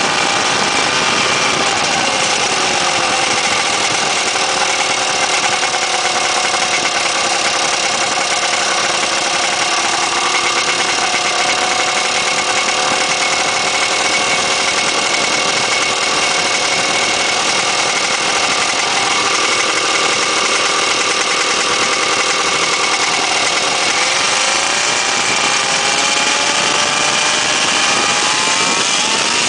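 Weedhopper ultralight's two-stroke engine running steadily, its pitch dropping in the first couple of seconds and rising again near the end.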